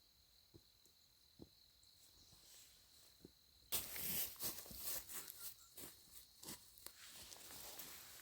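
A faint steady insect buzz with a few soft ticks, then, about four seconds in, a sudden crackling rustle of dry plant leaves with many small snaps that goes on to the end.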